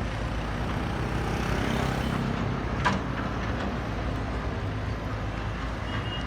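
Diesel engine of a JCB backhoe loader running steadily, with a single sharp knock about three seconds in.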